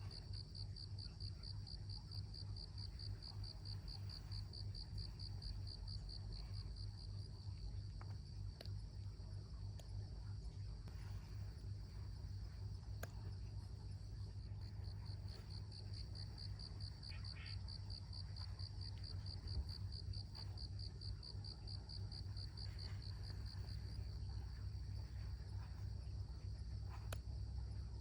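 Cricket trilling: a run of rapid, even, high-pitched pulses that pauses for a few seconds about eleven seconds in, then resumes and falls silent for the last few seconds, over a low steady hum.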